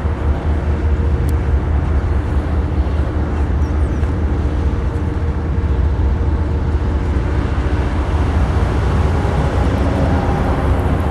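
BNSF freight train running, a steady loud rumble with the drone of its diesel locomotive engines.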